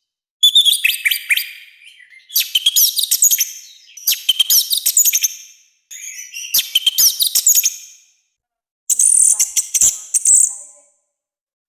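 Orange-headed thrush singing a loud, harsh song in five quick high-pitched phrases of rapid sliding whistles and raspy notes, each phrase a second or two long with short pauses between.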